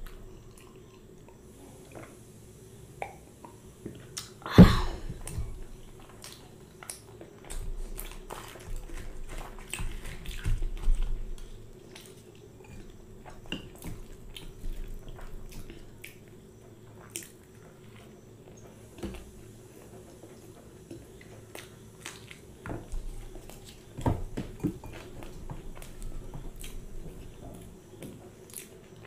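Close-up eating sounds: chewing and wet mouth noises as puri with potato curry is eaten, with scattered small clicks. A sharp knock about four and a half seconds in, and a faint steady hum underneath.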